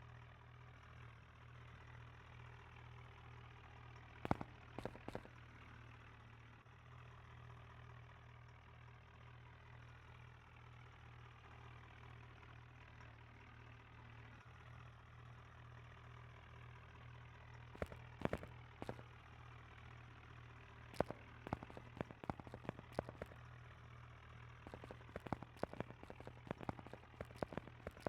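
Tractor engine idling with a low, steady, slightly pulsing hum. Scattered sharp cracks come through it: a few about four seconds in, then more and more often from about twenty seconds on.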